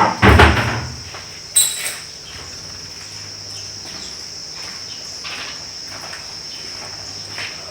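Crickets singing steadily in a high, unbroken drone, with a few loud knocks in the first second and a sharp click about one and a half seconds in.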